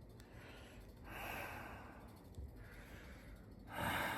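A man breathing audibly close to the microphone: two breaths, one about a second in and a louder one near the end.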